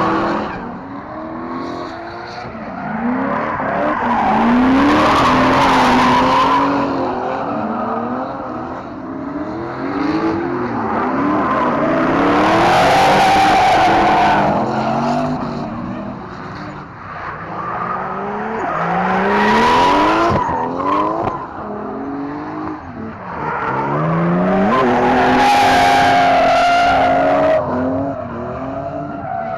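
Drift cars sliding by one after another, engines revving up and down hard with tyres screeching. Four loud swells come as cars pass closest.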